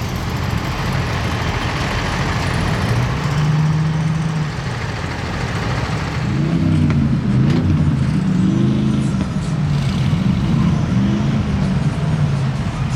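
Vehicle engines running, with an engine revving up and down repeatedly in the second half.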